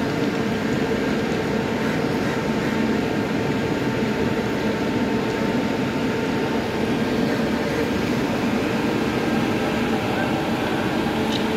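Steady mechanical drone of a halted passenger train's machinery, with a few constant humming tones and no change in speed.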